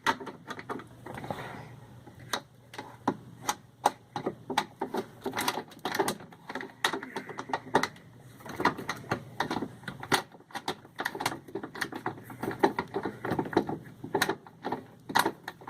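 Rapid, irregular metallic clicking and knocking of a hand tool working on screws and sheet-metal parts on the underside of a washing machine.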